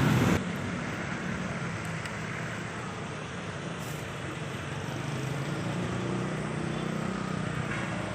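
Steady motor-vehicle noise: a low engine hum with road hiss, getting a little louder in the second half.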